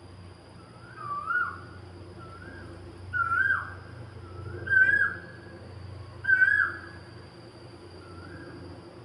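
A bird calling repeatedly: about six short rising-then-falling calls, roughly one every second or two, the loudest about five and six and a half seconds in. Under the calls run a steady high-pitched whine and a low rumble.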